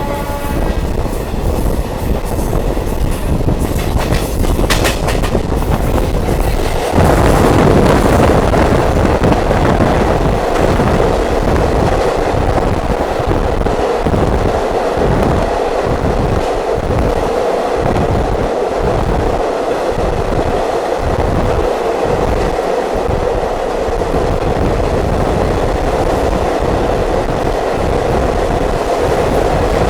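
Diesel multiple unit train running along the track, heard on board: a steady rumble that gets suddenly louder about seven seconds in, with a regular clickety-clack of the wheels, about one beat a second, through the middle stretch.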